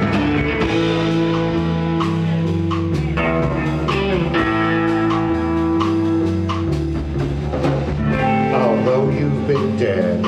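Live rock band playing an instrumental passage: electric guitars and bass over a steady drum-kit beat, with a long held guitar note through the middle.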